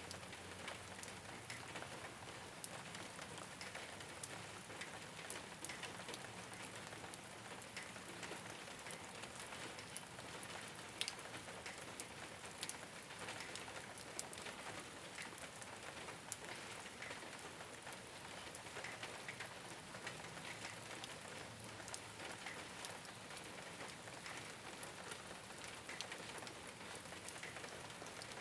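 Steady rain falling on a rooftop, an even hiss dotted with many small, sharp drop impacts.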